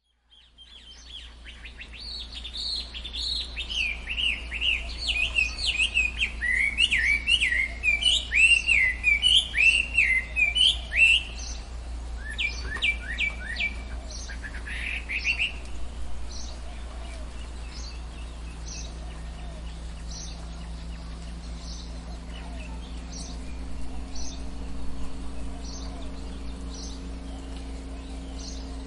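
Birdsong in a forest ambience: a loud, rapid warbling song of quick up-and-down notes for the first half, then softer, evenly repeated short high calls over a steady low hum.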